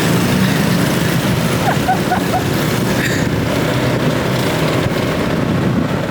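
Motorbike engines running, a steady loud mechanical noise.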